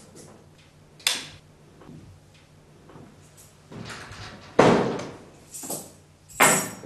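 Four sudden knocks, short and sharp, with quiet between them; the loudest come about four and a half seconds in and again near the end.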